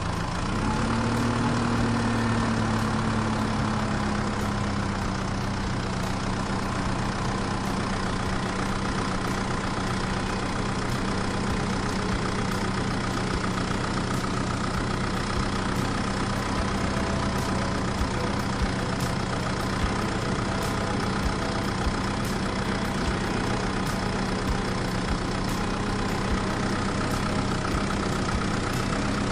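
Mini tractor running with a steady engine-like hum that rises in pitch about a second in, then eases back and holds steady.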